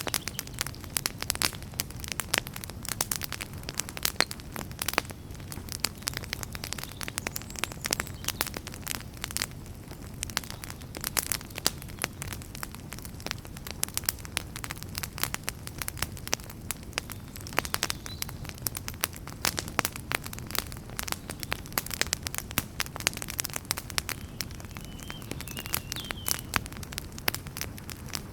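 Wood fire burning in a fireplace: logs crackling and popping in dense, irregular snaps over a steady low rumble of the flames.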